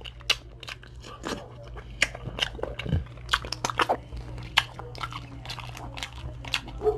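Close-miked crunching and clicking of Dungeness crab shell being cracked and picked apart, mixed with chewing. Irregular sharp clicks come several times a second.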